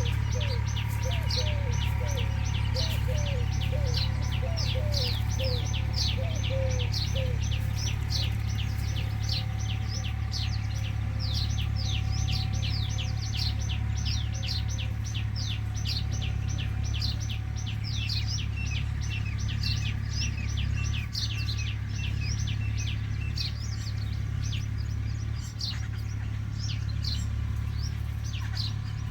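Small birds chirping rapidly, a continuous stream of quick high downward-sliding chirps, several a second, over a steady low hum. A lower repeated call joins for the first several seconds.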